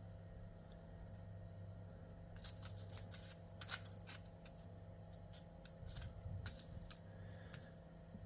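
Small metal brake hardware, the caliper guide pins from a new pad kit, clinking and clicking together as they are handled, in two clusters of quick clicks. A faint steady hum runs underneath.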